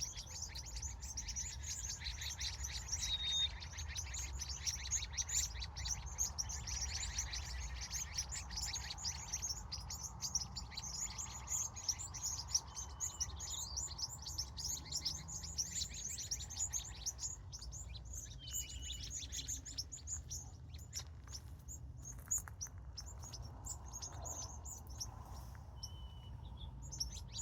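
Evening bird chorus: many small birds chirping in a dense, high chatter that thins out after about ten seconds, with a short whistled note repeating every few seconds. A low steady rumble runs underneath.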